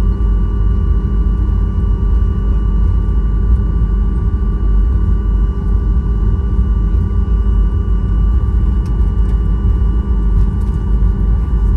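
Steady airliner noise: a loud, even low rumble with several constant whining tones over it, unchanging throughout.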